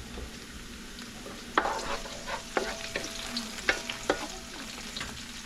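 Garlic, onion, curry leaf and hot pepper sizzling in hot oil in a pot for a duck curry. A spoon stirs and knocks sharply against the pot about five times from about a second and a half in.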